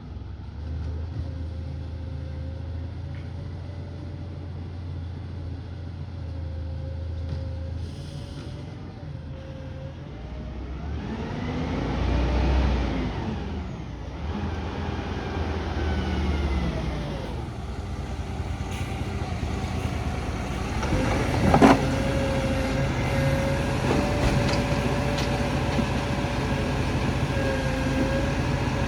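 A truck engine running steadily amid street traffic. Vehicles pass by around the middle, there is a single sharp knock about three-quarters through, and the engine sound is louder after it.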